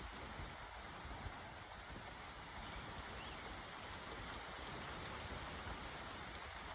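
Steady thunderstorm rain hissing, with gusty wind rumbling on the microphone.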